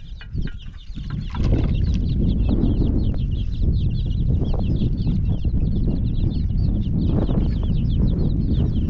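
A flock of birds chirping rapidly and without pause. A loud, steady low rumble comes in about a second and a half in and stays.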